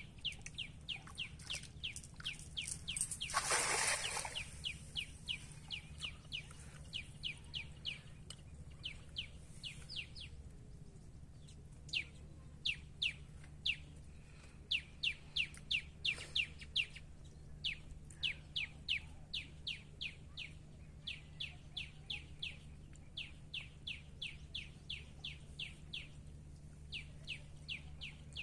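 A bird calling in runs of short, falling chirps, about five a second, over a low steady hum. About three seconds in, a cast net is thrown and lands on the water with a brief rushing splash.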